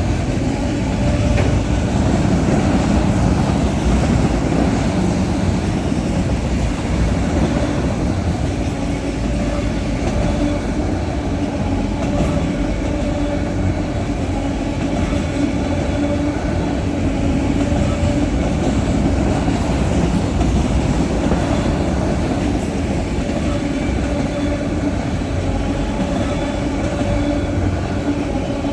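Freight train of empty autorack car carriers rolling past, a continuous heavy rumble of wheels on rail with a steady humming tone running through it.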